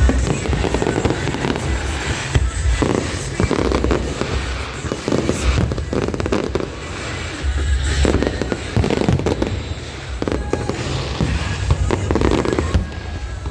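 Aerial fireworks bursting in a dense, continuous barrage: deep booms mixed with many sharp cracks, easing briefly about halfway through before building again.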